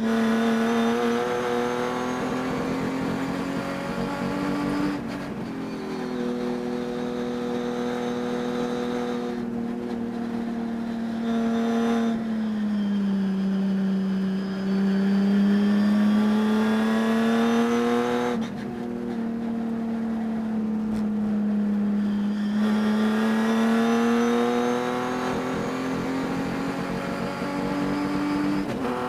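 Racing engine running hard under load, its pitch rising and falling with the revs and stepping abruptly a few times. The driver says it carried a high-RPM miss through the race.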